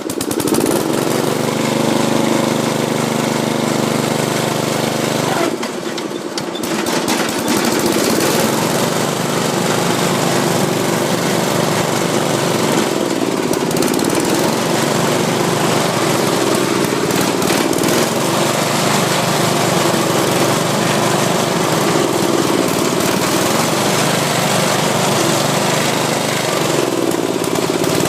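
Ariens RM1032E riding mower's engine starting up and running loud, its speed sagging about six seconds in and then drifting down and back up several times. The owner calls this throttling down and coming back up a frequent fault of the very old mower, not a lack of fuel.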